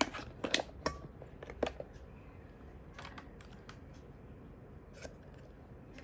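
Quick clicks and light knocks of plastic parts and packaging being handled, several close together in the first two seconds, then a few fainter ones around three and five seconds in.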